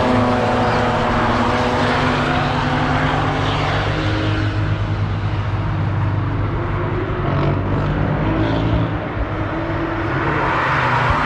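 Car engines at a racetrack corner. A car's engine note falls away at the start, a steady low engine drone runs underneath, and another engine swells as a car approaches near the end.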